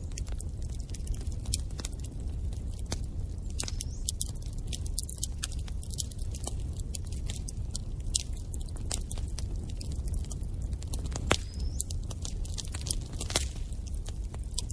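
Wood fire in a fireplace crackling: a steady low rumble under dense, irregular sharp crackles, with a few louder pops, one of them followed by a short rising whistle about eleven seconds in.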